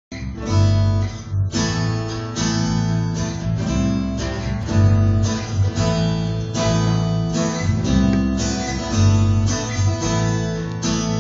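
Live band playing the instrumental intro of an indie-pop song: a strummed guitar over a bass guitar line, with no singing yet.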